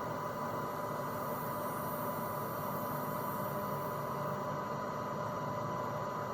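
Steady hum and hiss with a constant high-pitched tone running through it.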